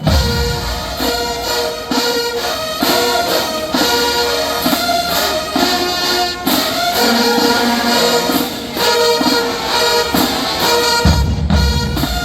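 College marching band playing loudly: a full brass section carrying the tune over a steady beat of drum hits, with heavy low drum and bass hits at the start and again near the end.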